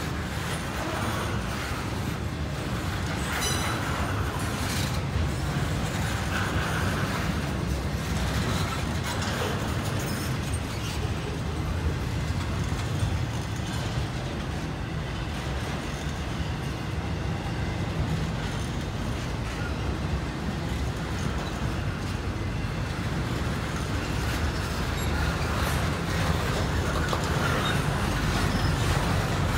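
Intermodal freight train cars, container well cars and trailer flatcars, rolling past with a steady rumble of steel wheels on rail. A couple of sharp knocks come about three and five seconds in, and the sound grows louder near the end.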